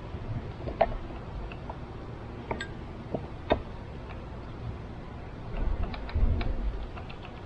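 Scattered light clicks and knocks of wooden beehive frames and a hive tool being handled during a hive inspection, with a louder low rumble about six seconds in.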